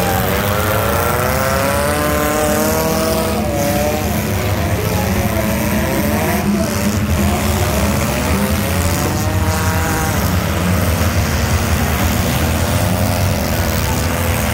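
Several demolition-derby car engines running and revving together, their pitches repeatedly rising and falling over a constant low rumble.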